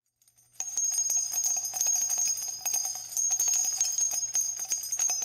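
Rapid jingling of small bells, many quick strikes over steady high ringing tones, starting about half a second in.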